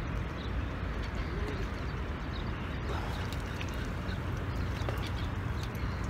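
Faint bird calls over a steady low background rumble.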